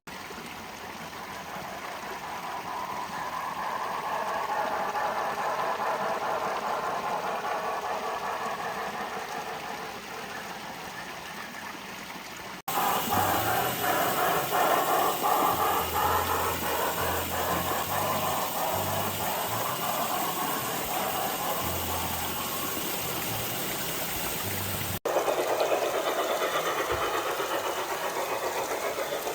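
Garden-scale model train running along its outdoor track: a steady motor-and-wheel rumble that grows louder and then fades as it passes, with faint rhythmic clicking of wheels over the rails in the middle stretch.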